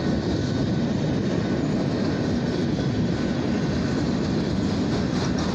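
Freight train rolling past: a steady, unbroken rumble of steel wheels on the rails.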